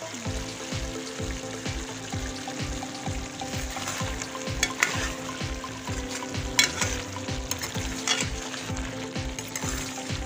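Aloo gobi sizzling in a steel pan while a metal spoon stirs it, with a few sharp scrapes of the spoon against the pan about halfway through. A steady low pulse runs underneath, about four a second.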